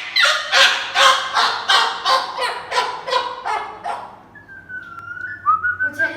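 Moluccan cockatoo screaming: a rapid run of about a dozen loud, harsh calls, roughly three a second, that tail off after about four seconds. A thin wavering whistle follows near the end.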